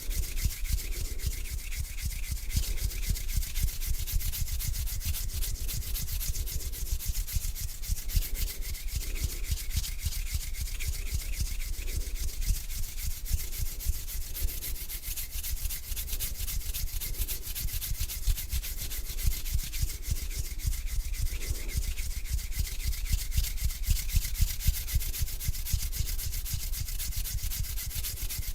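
Hands rubbing together, a continuous rubbing without pause.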